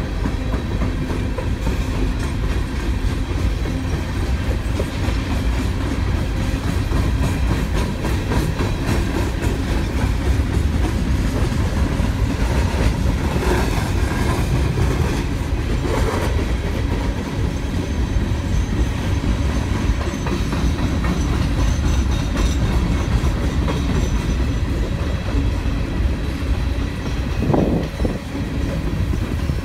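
Freight train's open-top coal hopper cars rolling past in a steady rumble, the wheels clicking continuously over the rail joints.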